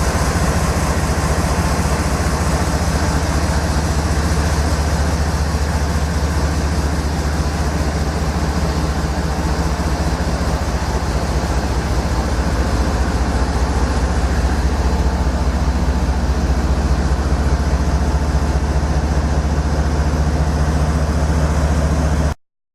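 Diesel-electric locomotive (NS 8100, a GE ES44AC) idling steadily while parked, a constant low engine drone with a hiss from the engine and blowers. It cuts off suddenly near the end.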